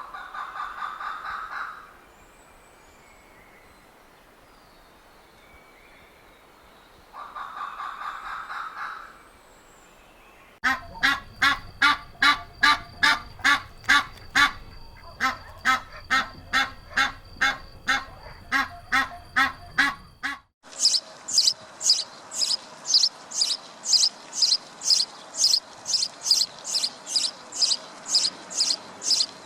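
Waterfowl calls from a series of separate clips. First come two short honking calls, a few seconds apart. Then about ten seconds of rapid calls, roughly four a second, and after a sudden cut, high-pitched chirping calls repeated quickly to the end.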